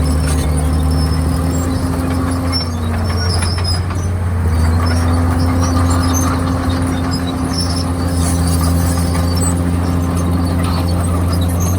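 Komatsu D51PX crawler bulldozer's diesel engine running steadily at working revs. Its pitch sags about three seconds in, then picks back up. Scattered short high squeaks sound over it.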